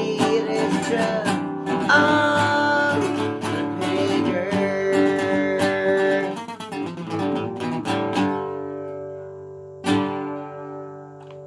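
Acoustic guitar strumming the closing chords of a country song, with a wordless vocal line over the first few seconds. The strumming stops about eight seconds in, and one last chord struck near ten seconds rings out and fades.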